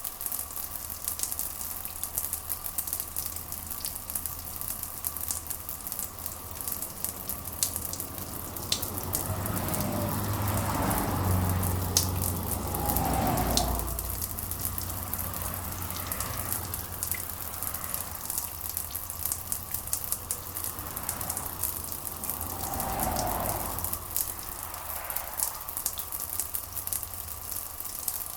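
Steady rain falling, a crackling hiss of many drops. A low rumble swells up about ten seconds in and again, more briefly, later on.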